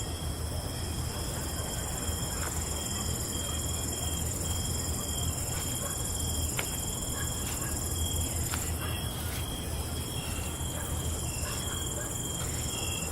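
Night insect chorus of crickets trilling steadily at several high pitches, one of them breaking on and off, over a low rumble like wind, with a few faint scattered clicks.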